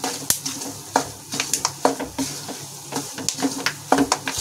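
A spatula stirring roasted wheat flour and ghee in a metal kadhai, with irregular sharp crackles and ticks, several a second, as the melon seeds and chopped almonds start to roast in the hot flour ("chat chat").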